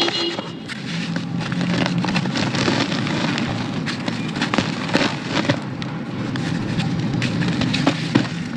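Dry, crunchy cake crumbles being crushed and broken up, a dense crackling crunch with a few sharper snaps.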